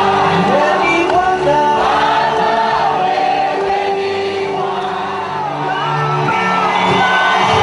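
Worship music with a crowd singing together, with occasional shouts.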